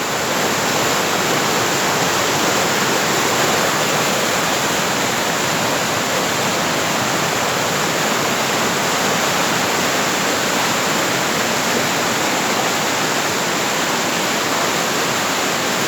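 Fast-flowing river rushing powerfully, a loud, steady roar of water.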